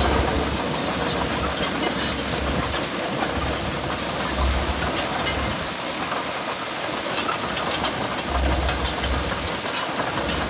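Heavy earthmoving machinery at work: a steady engine noise with scattered sharp metallic clicks and clanks, and low rumbles that come and go.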